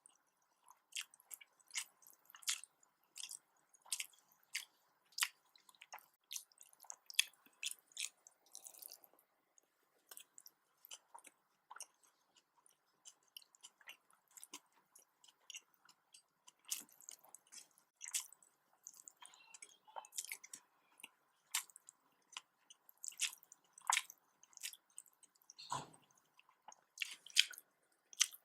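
Close-miked chewing and wet mouth smacks of a person eating nasi dagang, rice with fish curry: a run of short, uneven clicks and smacks, sparser in the middle, with one deeper thump near the end.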